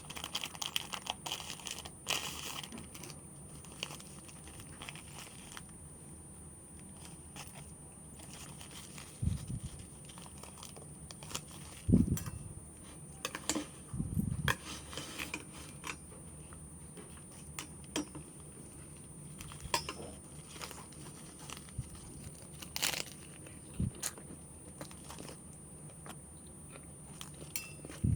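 Plastic food packaging crinkling and tearing for the first few seconds, then sparse sharp clicks and a few dull thumps from handling food.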